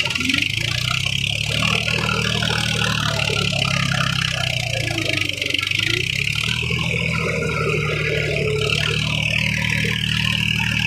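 Tractor's diesel engine running steadily, with a constant high hiss over it.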